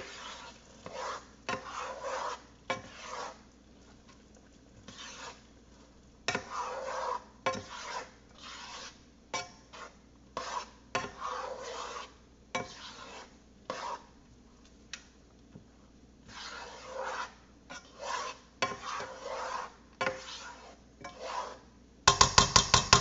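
A utensil stirring risotto rice in a pan, scraping and rubbing in irregular strokes with short pauses. Near the end comes a quick run of loud, sharp taps.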